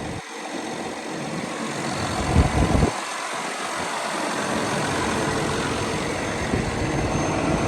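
Cummins diesel engine of a Kenworth W900 mixer truck idling steadily, with a brief low bump about two and a half seconds in.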